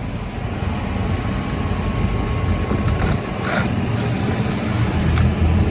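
Car engine running steadily, getting louder near the end, with a few short knocks about three seconds in.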